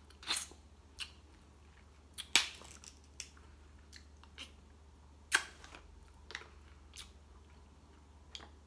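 Close-up sounds of a person eating crab: chewing and biting, heard as scattered sharp smacks and crunches, loudest about two seconds in and again a little after five seconds.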